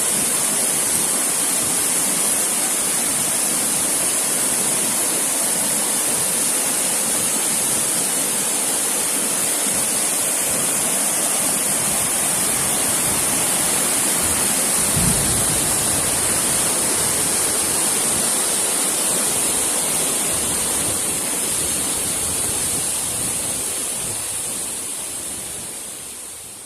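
Steady rushing roar of a waterfall, with a brief low bump about halfway through; the sound fades out over the last few seconds.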